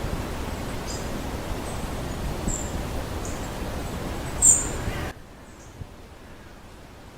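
Several short, high bird chirps, the loudest about four and a half seconds in, over a steady outdoor rushing noise that drops away abruptly about five seconds in.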